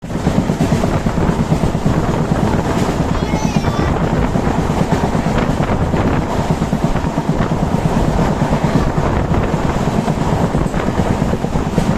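Indian Railways Jhelum Express running at high speed: a steady, loud rumble and rattle of wheels on rail, with wind noise on the microphone.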